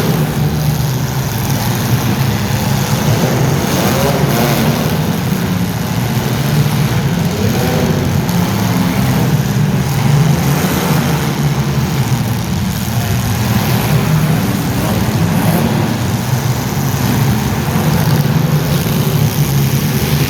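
Motor vehicle engine running steadily, its pitch wavering slightly.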